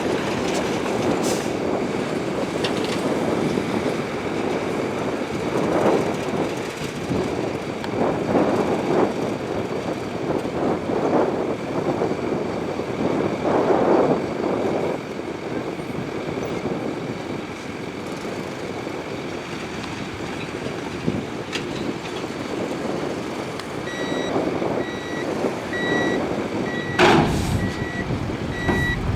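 Heavy earthmoving machinery at work: a diesel engine running and surging repeatedly under load, with the grind of gravel and rock being pushed. In the last few seconds a reversing alarm starts beeping at an even pace, and one short loud burst of noise comes near the end.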